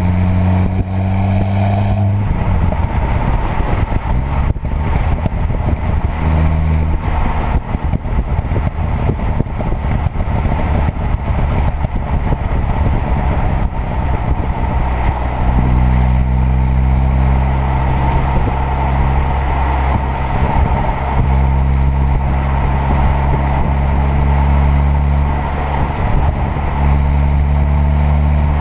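A car's 2.0 TFSI turbocharged four-cylinder engine on the move. Its note holds steady revs for long stretches and fades into rougher road noise between them. In the rougher parts there are scattered sharp cracks.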